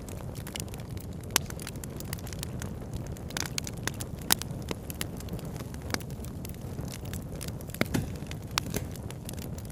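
Campfire crackling: irregular sharp pops and snaps from burning wood, a few of them louder, over a steady low rush.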